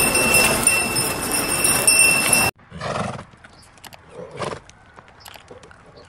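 A steady noisy outdoor bed with thin high whining tones, cut off abruptly about two and a half seconds in. It gives way to a quieter pasture where a horse makes two short calls, about half a second and two seconds after the cut.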